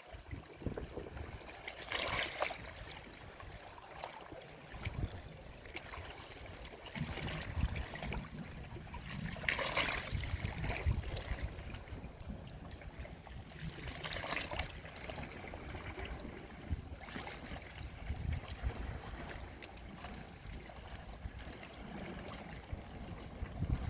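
Sea waves washing onto the shore, with three louder swells of surf breaking over a steady hiss of moving water.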